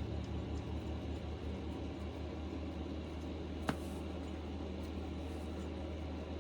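A steady low hum in the background, with one sharp click a little past halfway.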